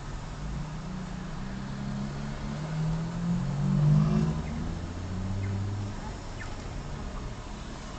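Car engine accelerating, heard from inside a car's cabin: the engine note climbs in pitch and grows louder to a peak about four seconds in, then eases back to a steady run over road noise.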